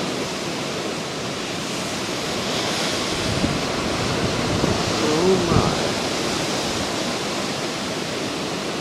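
Hurricane wind blowing hard and steadily, a dense, even rush of noise. A short pitched sound rises and falls a little past halfway.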